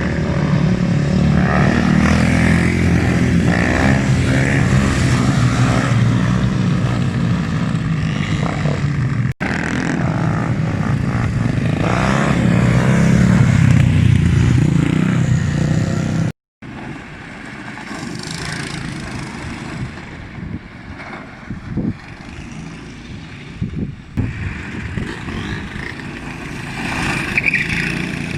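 Motorbike engines running and revving loudly, cut off abruptly twice; after about sixteen seconds a quieter stretch of engine sound with scattered knocks.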